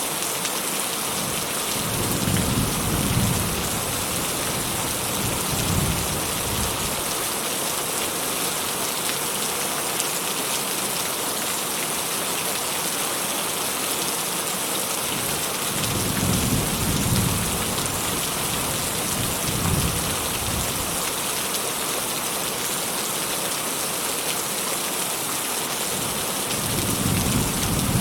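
Steady rain falling, with distant thunder rumbling low five times, each swelling and fading over a second or two.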